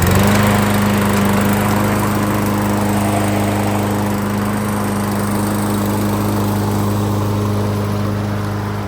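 Ariens push mower's Briggs & Stratton 725EXi engine, just started, running at a steady speed with an even, unchanging pitch.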